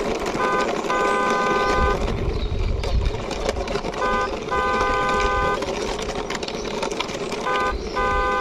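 Car-horn toots, a short blast followed by a longer one, repeating three times about three and a half seconds apart, over a steady rolling noise of a plastic toy car's wheels pushed along concrete.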